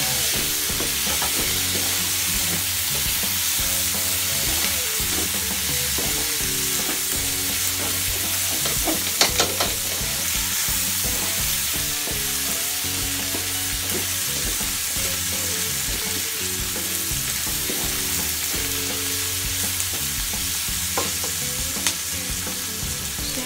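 Pork, onion and garlic sizzling in hot oil in a steel wok while being stirred and turned with a nylon spatula. About nine seconds in there is a short cluster of louder clacks of the spatula against the wok.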